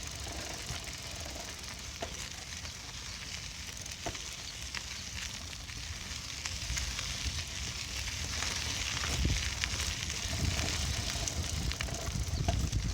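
Bicycle in motion heard from on the bike: a steady hiss of tyres rolling over the path, with scattered small clicks and a low rumble that grows louder in the second half.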